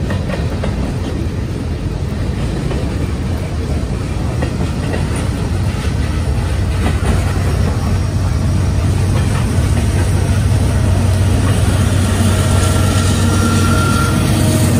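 Freight train rolling past close by: railcar wheels clattering over the rails in a continuous rumble, with a low steady hum growing louder in the second half.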